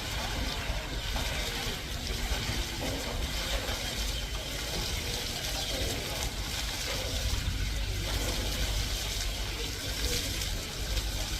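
Steady noise of running water, with a low rumble underneath.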